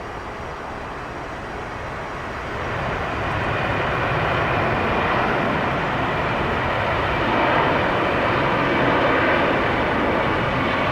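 Jet airliner's engines, a broad rushing noise that grows louder about two to three seconds in and then stays loud.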